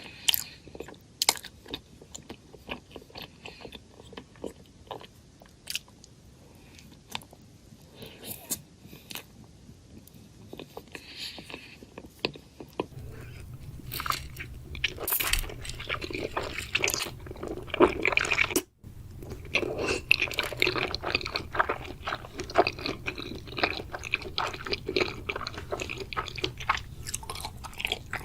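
Close-miked crunching and chewing of a crunchy chocolate snack: sparse sharp crunches and bites at first, then from about halfway louder, continuous wet chewing over a low hum, with a brief drop-out of all sound shortly after.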